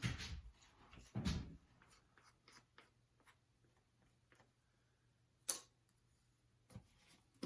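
Faint scattered clicks and taps of small objects being handled, with one sharper click about five and a half seconds in, over a faint low hum.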